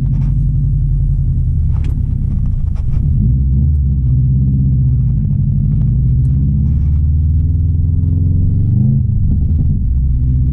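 2016 Subaru WRX STI's turbocharged 2.5-litre flat-four engine running at low revs with a steady low rumble, the revs rising briefly about eight seconds in.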